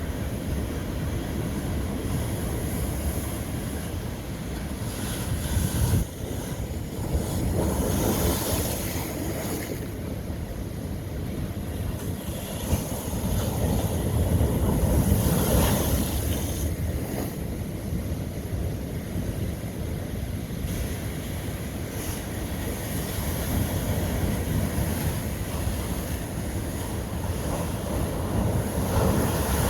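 Ocean waves breaking on old lava rock: a steady wash of surf that swells with bigger breaks about six to eight seconds in, most strongly around the middle, and again at the end.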